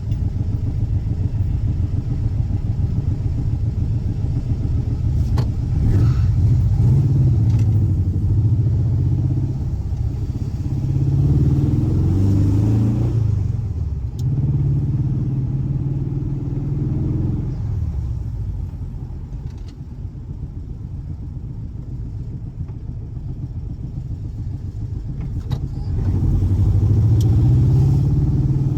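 Air-cooled 1584 cc flat-four boxer engine running, its revs rising and falling. It eases off and quietens for several seconds past the middle, then picks up again near the end.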